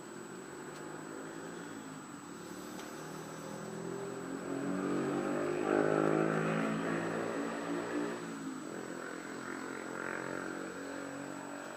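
A passing engine, growing louder to a peak about six seconds in and then fading, its pitch sliding as it goes by.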